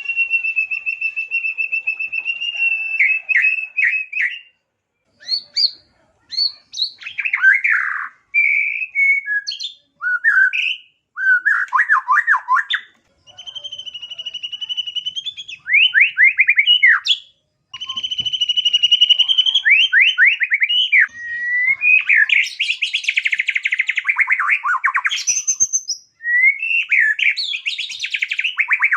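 White-rumped shama (murai batu) singing a long, varied song that pours out mimicked small-bird calls. Long steady whistles break into fast falling trills and rapid chattering runs, with short pauses between phrases.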